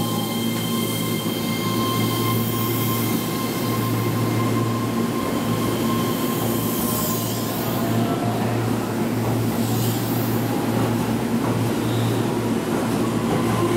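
Keihan 3000-series electric train pulling slowly into the platform and rolling past: wheels and running gear rumble steadily under thin high whines from the train. The whines fade out about halfway through.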